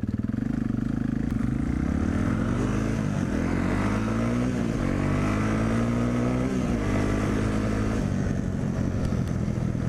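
Dirt bike engine running under changing throttle: its pitch climbs, eases off, climbs again and then drops back about two-thirds of the way through, settling to a steady note.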